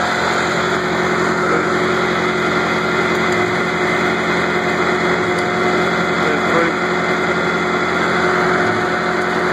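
Ford tractor engine running steadily at an even speed.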